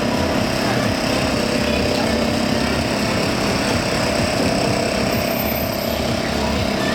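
Steady city street noise with a constant engine-like hum running under it.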